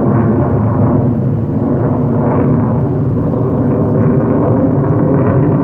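B-1 bomber's four turbofan jet engines passing overhead, a loud, steady, deep rumble.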